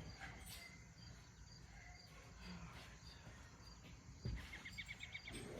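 Faint handling of tools: a soft knock about four seconds in, then a quick run of light clicks.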